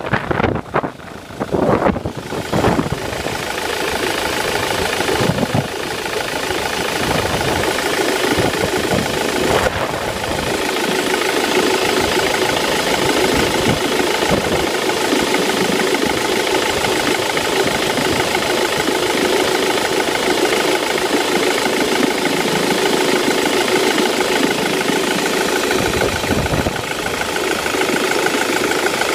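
Ford Mondeo Mk3 engine running at idle, uneven for the first few seconds and then settling into a steady note with a constant whine over it: the strange sound the owner wants identified.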